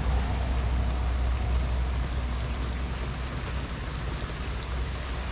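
Heavy rain falling on a small camper van: a steady hiss with a deep rumble underneath and scattered sharper drop ticks.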